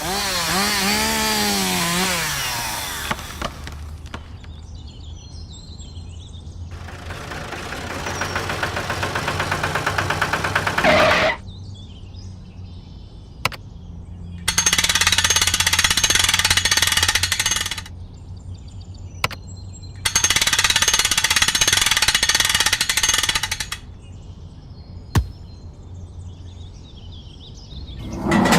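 Small power tool running in several long bursts with pauses between them. One burst rises in pitch just before it stops, and a few sharp clicks come in the gaps.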